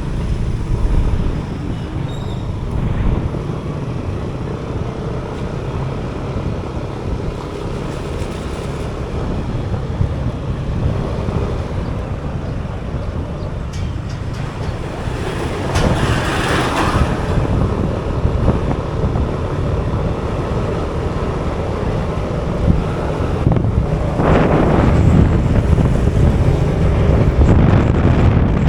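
Wind buffeting the microphone and road noise on a moving motorbike in traffic, a steady low rumble. The noise swells louder about halfway through and again near the end, as when other vehicles pass close by.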